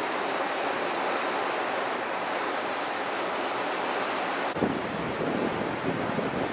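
Steady rushing of wind and sea water. About four and a half seconds in it switches abruptly to gusty wind buffeting the microphone.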